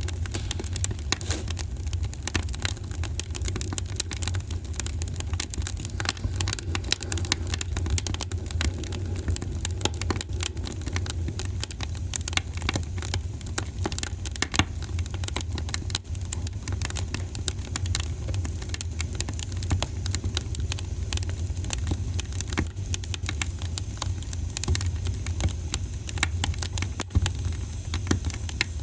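Wood fire in a fireplace crackling and popping: many small irregular snaps over a steady low rumble of the burning fire.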